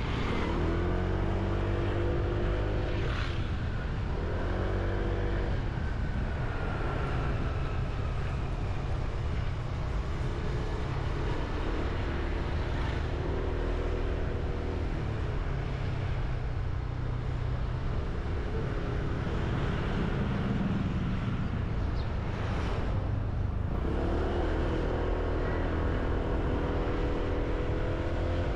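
Motorbike engine running under way, its revs rising and falling several times as it accelerates and eases off, over steady low wind and road rumble.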